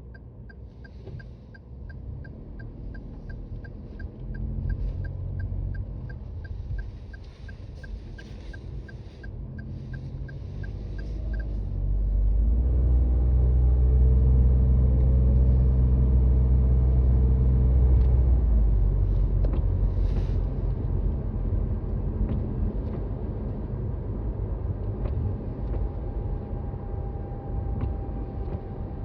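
Toyota Raize driving on a snowy road, heard from inside the cabin: a quick, regular high ticking for roughly the first half, then engine and road noise swell as the car accelerates, loudest around the middle and easing off near the end.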